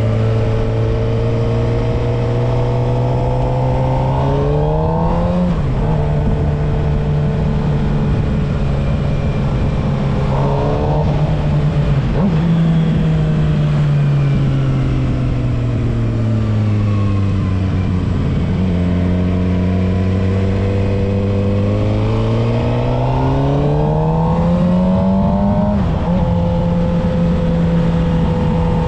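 Suzuki GSX-R750 inline-four engine under way: the revs climb and drop sharply at upshifts about five seconds in and again about eleven seconds in. The revs then fall away slowly as the bike rolls off and slows, and climb once more into another upshift near the end. A steady rush of wind and road noise runs under the engine.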